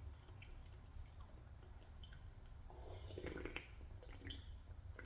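Faint eating sounds from pumpkin soup: soft wet clicks and chewing, with a louder cluster about three seconds in.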